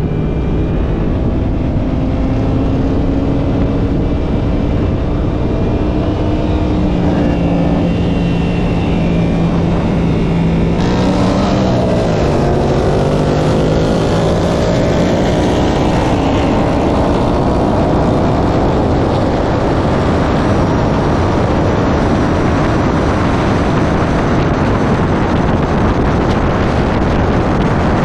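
V8 car engine pulling hard under full acceleration, its pitch climbing slowly through the gears with a shift about eleven to twelve seconds in, and wind rush building as the speed rises.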